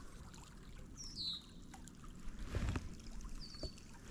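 A songbird gives short, high, down-slurred calls about a second in and again near the end, over a faint low background rumble, with a soft knock about halfway through.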